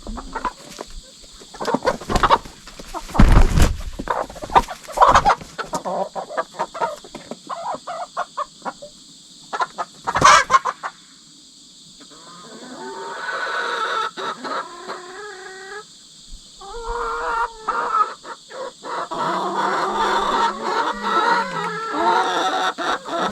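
Hens calling in drawn-out, wavering squawks and clucks, typical of the screaming and scolding while two newly merged hens settle their pecking order. The calls begin about halfway through and grow louder and denser toward the end. Before them come a string of sharp knocks and scrabbling close to the microphone, and a steady insect trill runs underneath.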